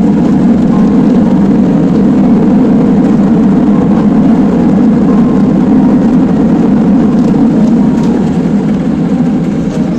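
Steady, loud rumble of a Boeing 767-300ER's jet engines and rushing air, heard inside the passenger cabin.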